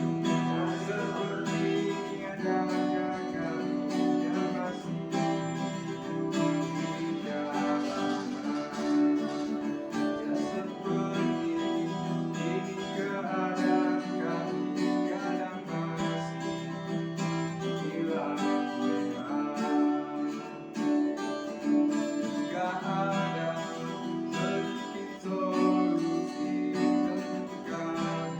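A song accompanied by strummed acoustic guitar.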